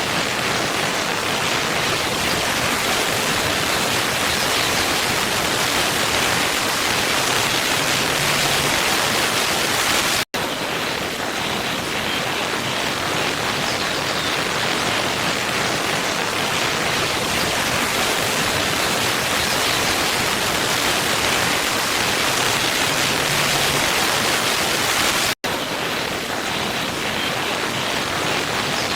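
Waterfall water rushing in a steady, even roar. It cuts out for a split second twice, about ten and twenty-five seconds in, where the looped recording restarts.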